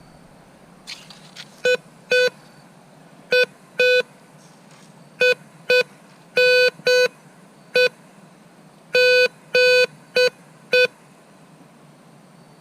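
Metal detector giving repeated short target beeps at one steady pitch, mostly in pairs, with a few longer tones, as the coil is swept back and forth over a buried piece of metal.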